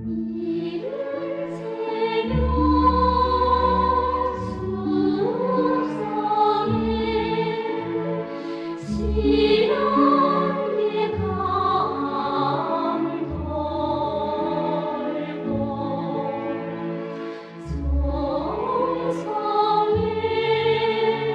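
North Korean operatic music: an orchestra with choral singing, the voices holding long notes with vibrato over a changing bass line.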